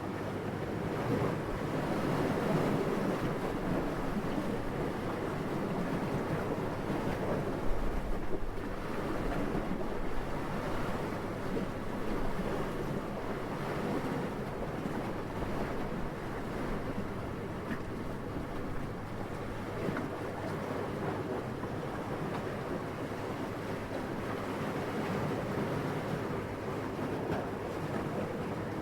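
Steady wind, a soft even rushing that slowly swells and eases, with a brief louder puff about eight seconds in.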